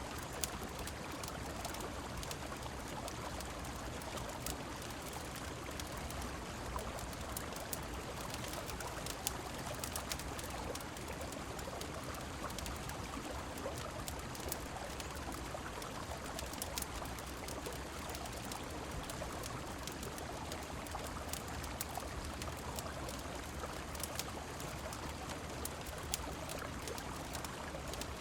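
Steady rushing of river water and rain, with scattered sharp crackles of a wood fire popping now and then.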